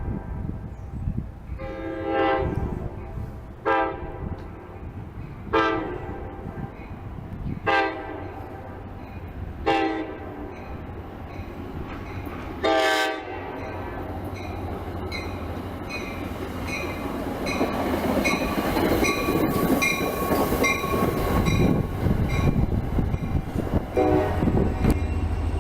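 Commuter train's horn sounding a series of separate blasts, some long and some short, as the train approaches a grade crossing. Then the train passes: a rumble of wheels on rail that builds toward the end, with a steady ticking and one more short horn blast near the end.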